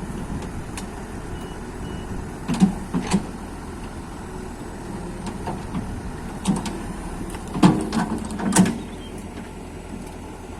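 Machine engine running steadily, with a handful of sharp metal knocks and clanks: two about two and a half seconds in, then a cluster around eight seconds.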